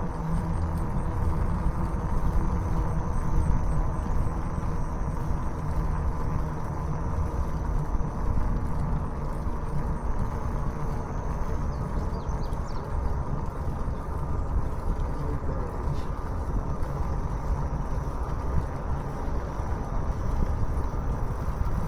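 Steady rush of wind on the camera's microphone while riding, with a steady low hum from the ride underneath.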